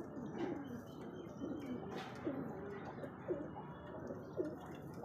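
Domestic pigeons cooing: a continuous string of low, throaty coos, one after another.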